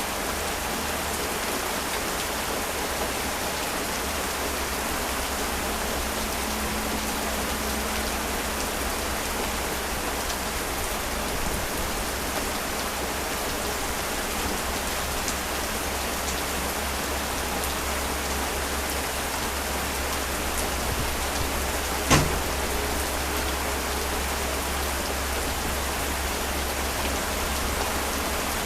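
Heavy rain falling steadily, an even hiss. About three-quarters of the way through, a single short sharp crack stands out above the rain.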